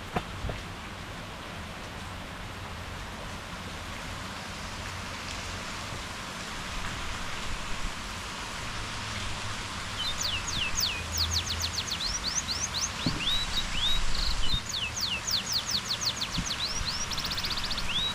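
Steady rain falling, with a bird starting to sing about halfway through: quick runs of high notes that sweep downward, mixed with a few short upward-hooked notes.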